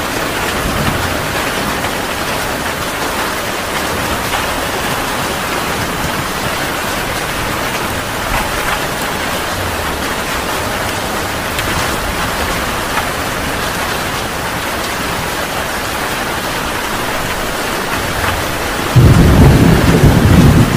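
Heavy rain falling steadily, with a loud low rumble of thunder breaking in suddenly near the end.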